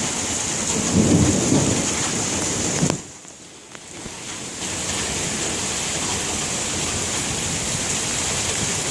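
Thunderstorm: a roll of thunder over steady rain in the first few seconds. The sound drops away suddenly about three seconds in, then the rain comes back and runs on steadily.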